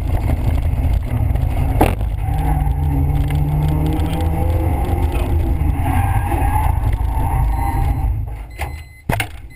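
Nissan Almera GTI rally car's four-cylinder engine pulling hard at high revs, heard from inside the cabin along with road noise, with a sharp knock about two seconds in. Near the end the engine note falls away as the car lifts off and slows, and a couple of sharp clicks follow.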